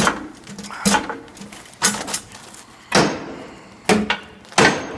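Hand hammer striking steel about once a second, six blows, each with a short metallic ring: knocking a stuck part of a snowplow mount into its notch.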